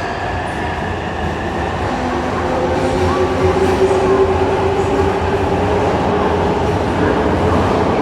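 Electric train moving at a station platform: steady rail and running noise with a motor whine coming in a few seconds in, growing gradually louder.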